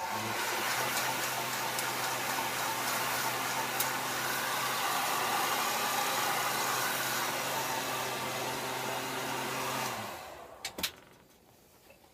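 Heat gun blowing steadily with a motor hum, warming the vinyl seat cover, then switched off about ten seconds in; two sharp clicks follow shortly after.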